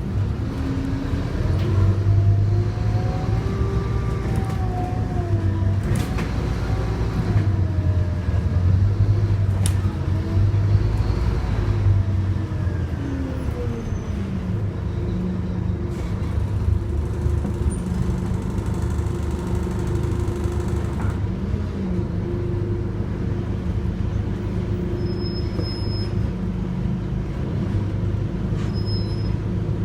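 Scania OmniCity single-deck bus running under way: its engine and transmission whine rise and fall in pitch several times through the first half, then settle into a steady drone.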